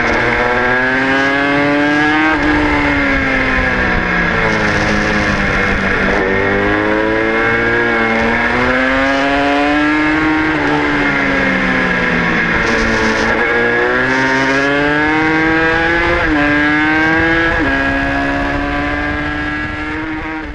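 Aprilia RS 125's single-cylinder two-stroke engine at high revs, its pitch climbing and dropping again and again as the rider accelerates hard and backs off for corners. The sound fades out near the end.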